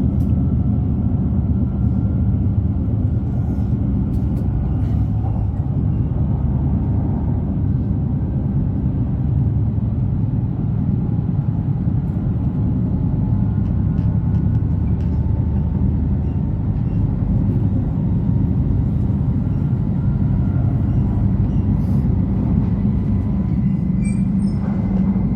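Steady low rumble of an E5 series Shinkansen running at speed, heard from inside the passenger cabin.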